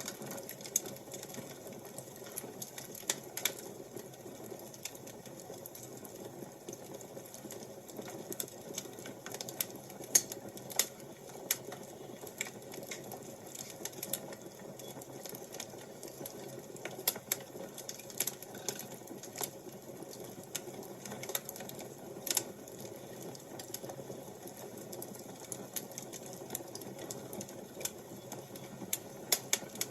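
Wood fire crackling: irregular sharp pops and snaps over a steady low rushing.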